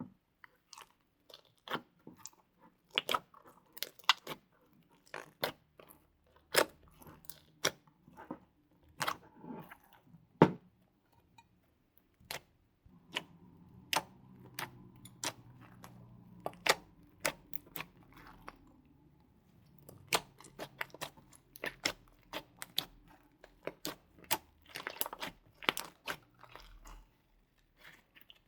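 Slime with clay mixed in being kneaded and squished by hand, giving irregular sharp clicks and crackling pops, one or two a second. The clicks thin out for a few seconds in the middle.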